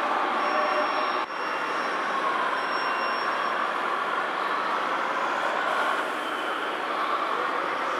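Radio-controlled model trucks running: a steady mechanical whirr of small electric motors and gearboxes, with a faint high whine over it and a brief break about a second in.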